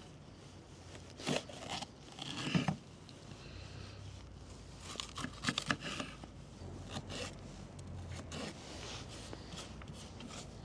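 Kitchen knife slicing an onion on a cutting board: scattered cuts and taps of the blade, with a quick run of several strokes about halfway through.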